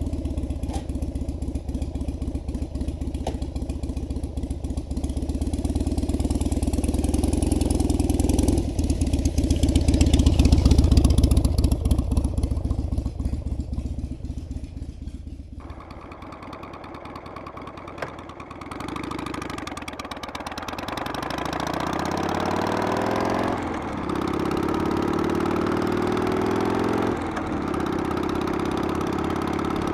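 Harley-Davidson Sportster's V-twin engine. First a deep rumble swells and fades; then the engine pulls up through the gears, its pitch rising steadily and dropping back at each shift, three times.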